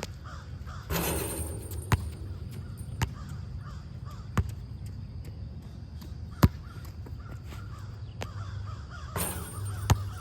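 Crows cawing again and again, with a few sharp knocks about a second or so apart, the loudest about six and a half seconds in, and two short rushes of noise about a second in and near the end, over a steady low hum.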